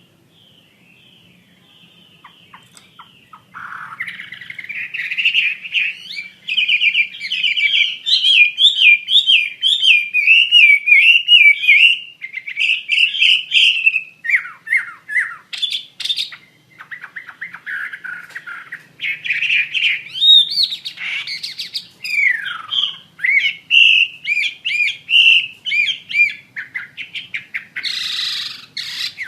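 Wambi (red-billed blue magpie) singing loudly in long, rapid warbling phrases of quick repeated trills, chatters and whistles, broken by short pauses. The song starts about four seconds in, after a quiet opening, and includes a falling whistled note partway through.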